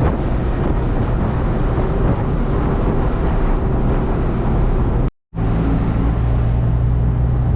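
Hino cab-over box truck's diesel engine running with road noise, heard from the cab as a steady hum. About five seconds in the sound cuts out completely for a moment, then resumes with a steadier, stronger engine hum.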